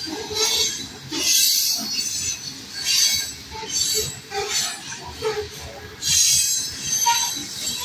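Freight train's covered hopper cars rolling past, steel wheels running on the rails with a high hissing rail noise that surges every second or two.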